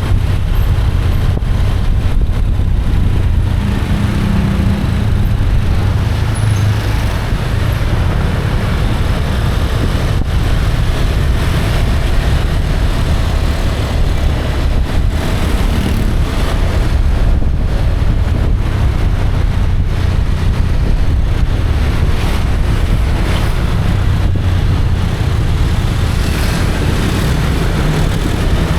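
Riding on a motorbike: steady wind buffeting the microphone over the rumble of the engine and road, with traffic around.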